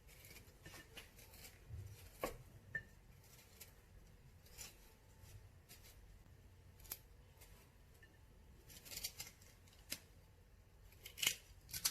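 Knife cutting through fresh ginger root: faint, irregularly spaced cuts and taps, with a quicker cluster near the end.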